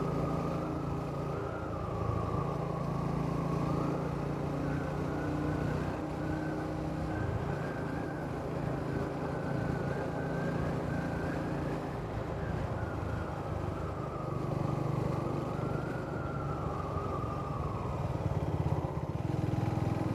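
Triumph Speed 400's single-cylinder engine and exhaust running continuously, the engine note rising and falling gently several times as the throttle varies.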